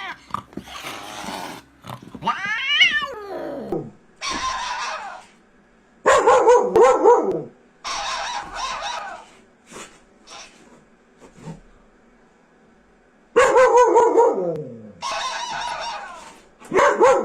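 Pet cat and dog calling: a string of drawn-out yowling and barking calls, many falling in pitch, with a quiet pause of a few seconds in the middle.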